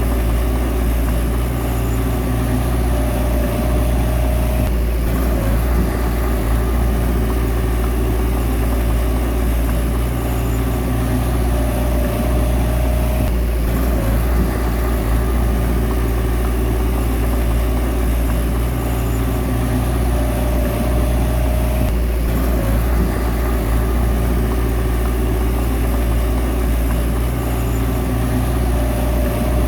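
A bulldozer's diesel engine running steadily at work. A higher whine rises over it for a couple of seconds roughly every eight seconds.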